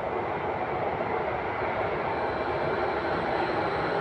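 Stadler KISS electric multiple unit approaching a station platform: a steady rumble of wheels on rail and running gear, slowly growing louder.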